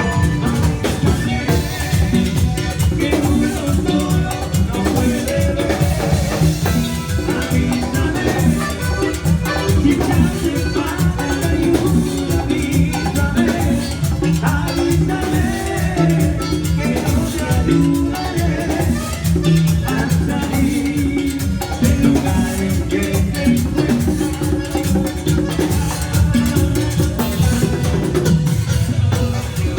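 A band playing Latin dance music, with drums and percussion, loud and unbroken.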